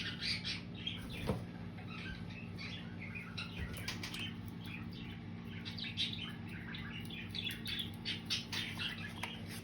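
Indian ringneck parrots playing with and chewing at new toys: a scatter of small clicks, taps and rattles mixed with soft chirps.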